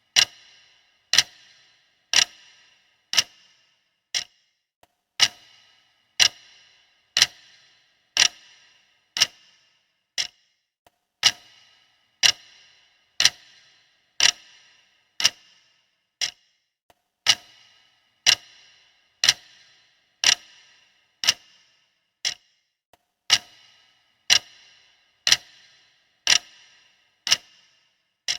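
Clock ticking steadily, about once a second, each tick a sharp click with a short ring.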